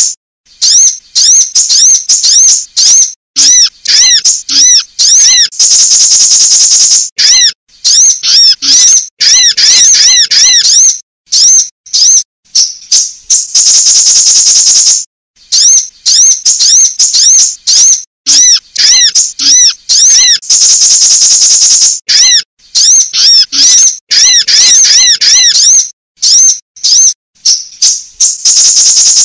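Sunbird calls played as a lure track: rapid strings of high, thin arched chirps, broken about every seven to eight seconds by a long, loud buzzy trill. Sold as female sunbird calls to provoke sunbirds into singing.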